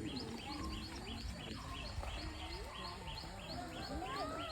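Bird chirping in a steady, even rhythm, about three short chirps a second, with faint voices of people in the background.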